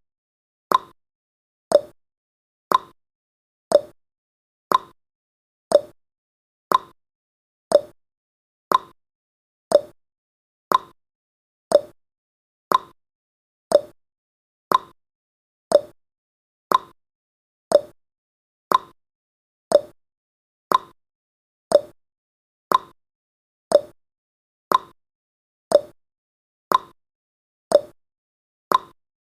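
Clock-style ticking sound effect of a countdown timer, one tick a second, alternating between a higher and a lower tick like a tick-tock.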